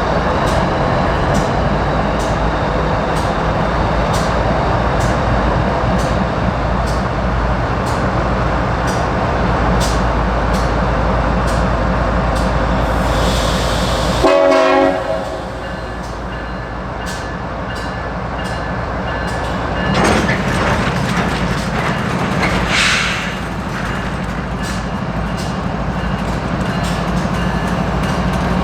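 A slow-moving diesel freight train rumbling, its wheels clicking steadily over the rail joints. About halfway there is a brief hiss and clatter, after which the low rumble drops; it swells again a few seconds later.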